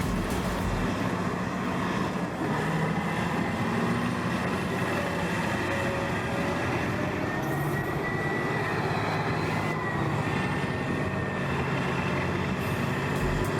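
Heavy earthmoving machine's diesel engine running steadily under work, with a faint whine riding over it partway through.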